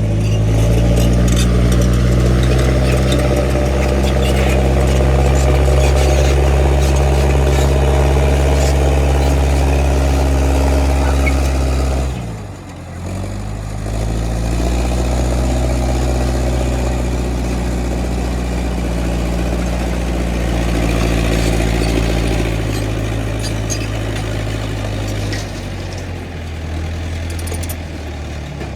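The engine of an International 125 crawler loader runs loud and steady under load. About twelve seconds in it drops sharply in speed, as if lugging, then pulls back up to speed. Near the end it eases off.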